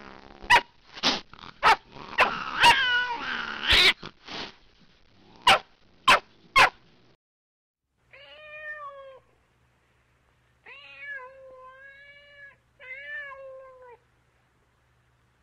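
Cat meowing and yowling in loud, pitch-sliding wails broken by sharp clicks, then three softer drawn-out meows in the second half.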